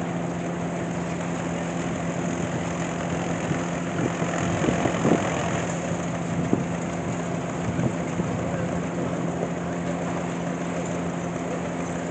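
An engine running at a steady idle, with a few brief knocks or clatters a third to two thirds of the way through.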